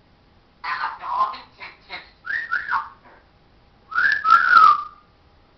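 Pet parrot vocalising: a quick run of short, chattering, speech-like calls, then a louder whistle that dips in pitch about four seconds in.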